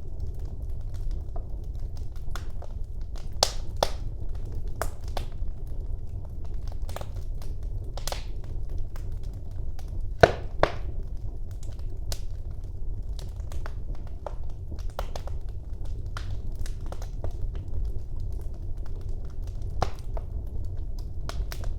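Wood fire burning in a fireplace: a low steady rumble of the flames with irregular crackles and pops, a sharp pair of louder pops about ten seconds in.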